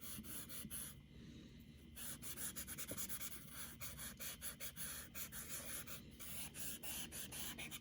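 An eraser rubbed quickly back and forth over charcoal on paper to blend the shading: a fast scratchy scrubbing that eases off for about a second near the start, then keeps on.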